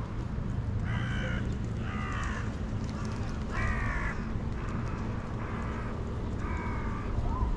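A crow cawing, about six harsh calls of roughly half a second each, spaced about a second apart, over a steady low outdoor rumble.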